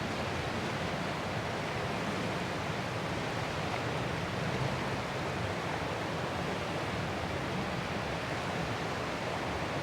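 Ocean surf, a continuous even rush of breaking waves with no single wave standing out.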